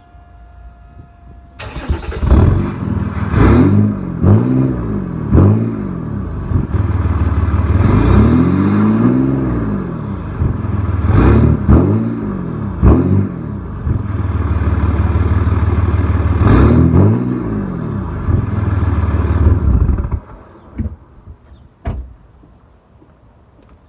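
EcoDiesel 3.0-litre V6 turbodiesel through a straight-piped 4-inch exhaust, starting up about two seconds in and idling loudly between a string of quick throttle blips and one longer rev. It cuts off near the end, followed by a few clicks.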